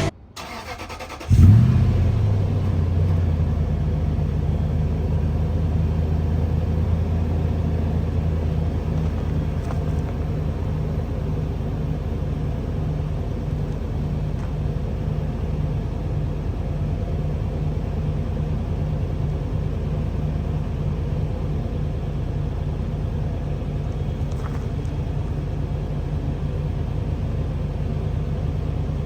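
Lexus GX 470's 4.7-litre V8 starting about a second in, flaring briefly, then idling steadily through a newly fitted Magnaflow exhaust.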